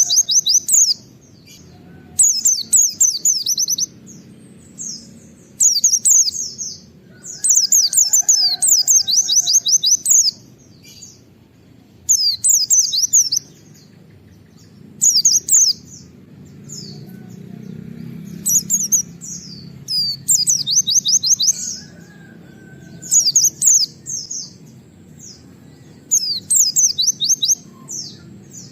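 A white-eye (pleci) singing in bursts of rapid, high 'wit-wit' chirps, each burst lasting a second or two, with short pauses between them. The bird repeats this about nine times over a faint low background hum.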